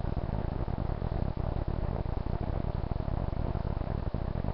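Steady background noise through a webcam microphone: an even hiss with a low hum underneath, unchanging throughout.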